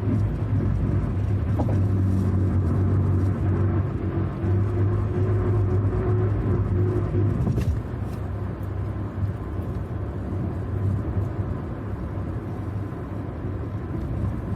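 Car engine hum and road noise heard from inside the cabin while driving. The low engine hum eases off about halfway through.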